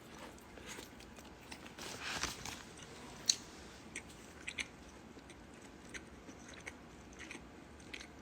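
A person chewing and biting food: soft, irregular crunches and small mouth clicks, with a sharper click about three seconds in.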